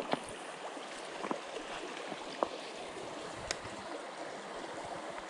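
Small creek water running steadily, with a few short clicks and taps scattered through it, one sharper near the middle.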